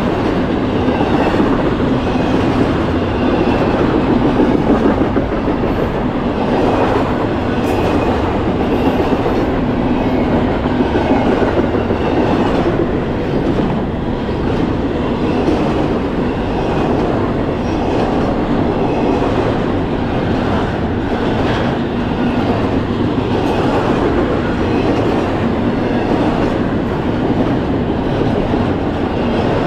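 Double-stack intermodal freight train passing close at speed: a loud, steady noise of steel wheels rolling on the rails and the well cars and containers rattling by.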